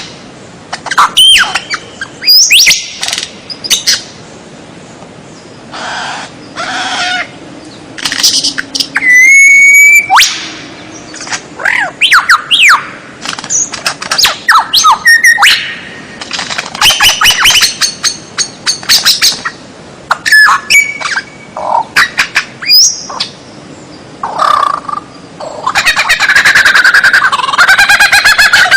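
A songbird's loud, varied song from a birdsong tutor recording: short whistled phrases, gliding notes and harsh chattering calls in quick succession, with brief pauses between. Near the end comes a long, rapid clicking trill.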